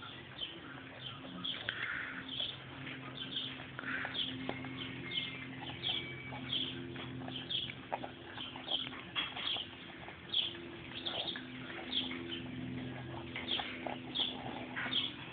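Several huskies crunching and chewing dry food, with many short crunches and clicks, a few a second, over a low steady hum.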